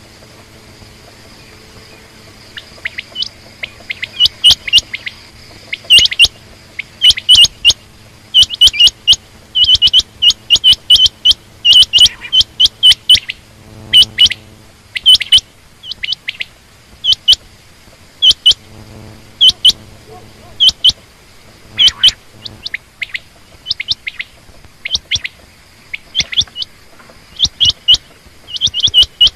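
Quail calling: short, sharp, high chirping notes in quick clusters of two or three, repeated again and again, beginning a couple of seconds in.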